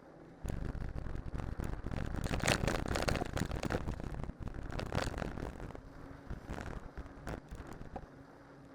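Riding noise of a cyclocross bike on spiked winter tyres going downhill: an irregular rumble with rattles and clicks. It starts suddenly about half a second in, is loudest in the middle and eases off near the end.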